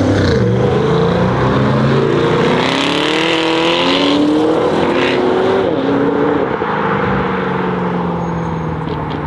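Loud BMW X3 M Competition with a custom exhaust accelerating hard, its twin-turbo inline-six climbing in pitch and dropping back at each of several gear changes. It gets quieter near the end as the car pulls away.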